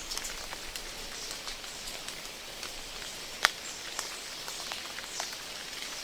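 Rain falling, a steady hiss with scattered individual drop ticks; one louder, sharper drop lands about halfway through.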